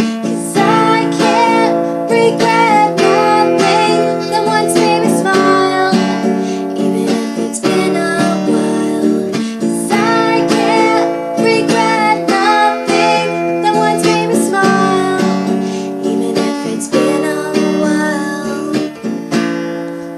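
Acoustic guitar strummed as song accompaniment, steadily and then getting quieter over the last few seconds as the song ends.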